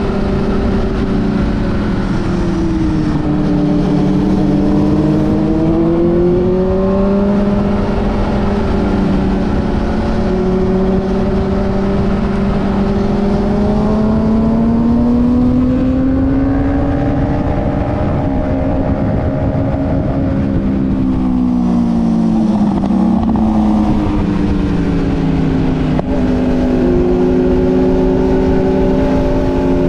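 Motorcycle engine sound, loud and continuous, its pitch rising and falling slowly over several seconds as the bikes accelerate and slow.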